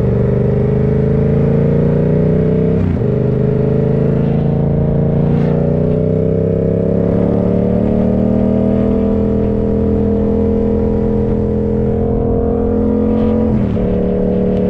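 Suzuki GSX-8R's parallel-twin engine running under load while riding, its pitch climbing slowly. The pitch breaks and drops briefly about three seconds in and again near the end.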